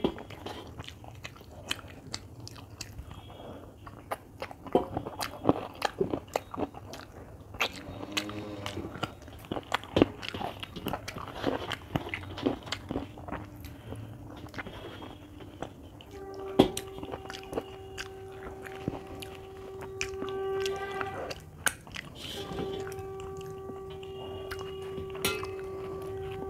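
Eating sounds: chewing and wet mouth clicks as rice is eaten by hand, with fingers scraping a brass plate. In the second half, two long steady horn-like tones of one pitch sound in the background, each about four seconds.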